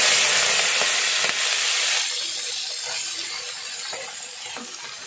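Small prawns tipped into hot oil in a kadai, sizzling loudly at once; the sizzle eases after about two seconds and fades slowly as the prawns start to fry.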